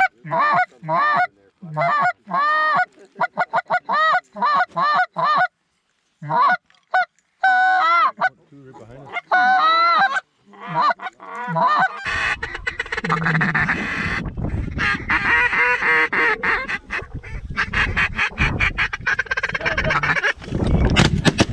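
Canada geese honking and clucking, loud and close: first as separate calls with short gaps, then from about twelve seconds in a dense overlapping chorus of many honks over wind noise.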